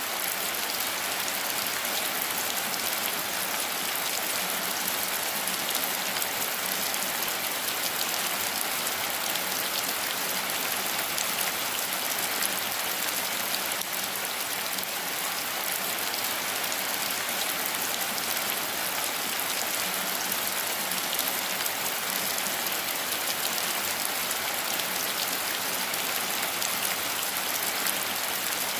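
Steady rain falling in a forest: an even, unbroken hiss of many fine drops.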